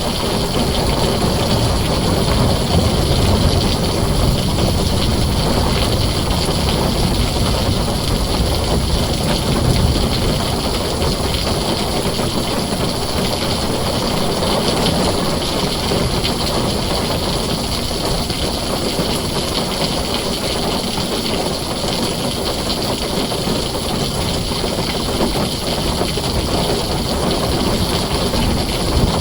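Heavy rain pouring steadily on a tin roof, an even rushing hiss. Low thunder rumbles swell and fade underneath it, strongest in the first few seconds and again about ten seconds in.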